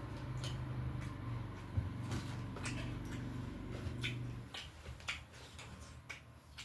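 Close-up eating sounds: chewing with small clicks and crunches, over a low hum that stops about four and a half seconds in.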